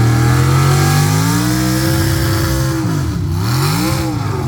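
Pulling truck's engine revving hard under load on the pull; its pitch climbs, drops sharply about three seconds in, and climbs back up.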